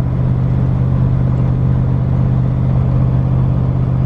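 Twin-turbo LS V8 in a Fox Body Mustang cruising at steady light throttle: a constant low exhaust drone that holds one pitch throughout.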